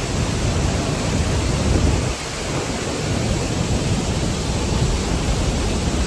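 A large waterfall's steady roar, really loud, with a deep rumble under a constant rushing hiss; the low rumble dips briefly about two seconds in.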